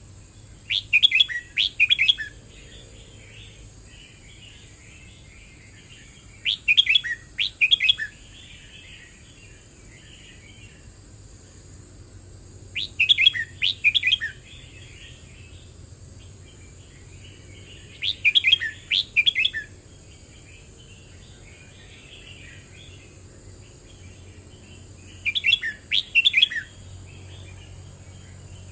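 Red-whiskered bulbul singing: five short, bright, warbled phrases, one about every six seconds, with quieter twittering between them.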